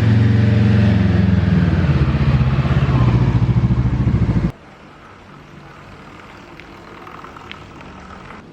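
A motorcycle engine running steadily close by, with a fast pulsing beat, cutting off suddenly about halfway through, leaving a much quieter background.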